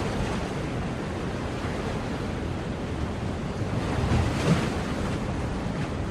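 Ocean waves washing onto a shore, a steady rush of surf, with one wave breaking louder about four seconds in. Wind rumbles on the microphone.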